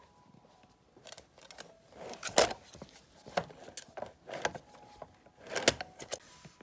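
Beagle puppy chewing and tearing at a plush toy: irregular crinkling, clicking and rustling, with louder bursts about two seconds in and near the end.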